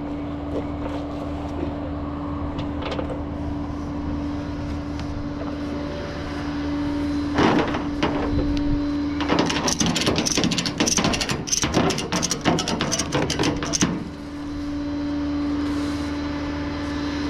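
A vehicle engine running steadily with a constant hum. A stretch of dense clattering and clicking runs from about seven to fourteen seconds in.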